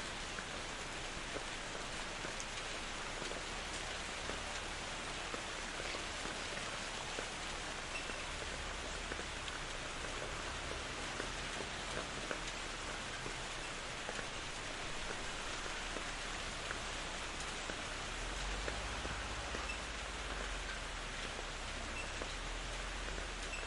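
Steady rain falling in a forest: a continuous hiss with scattered individual drops landing on leaves and surfaces. A low rumble swells a little from about 18 seconds in.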